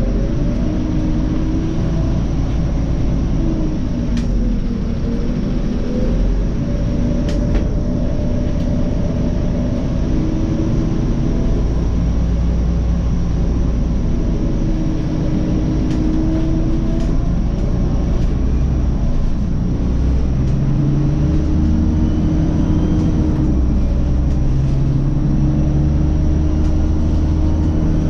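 Scania OmniCity city bus driving: its engine and drivetrain running with a steady low rumble, with a whine that rises and falls in pitch as the bus speeds up and slows.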